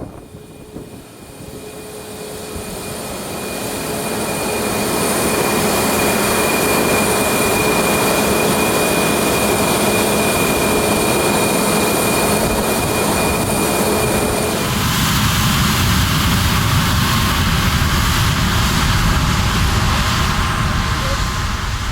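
Jet airliner's engines passing close by. A steady roar and whine builds over about five seconds. About two-thirds of the way through, the whine drops in pitch as the aircraft goes past, and a low rumble continues.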